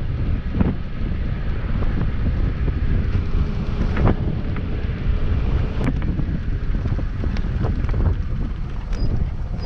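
Vehicle on the move: a steady low rumble with wind buffeting the microphone and scattered sharp knocks and rattles.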